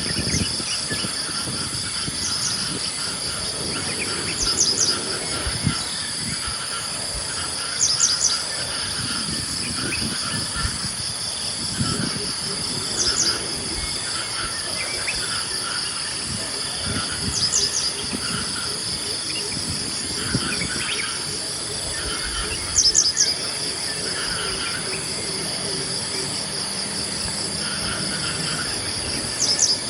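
A steady, high-pitched insect chorus of crickets or cicadas fills the background. Over it, a bird repeats a short burst of quick high notes every four to five seconds, with other birds chirping more softly.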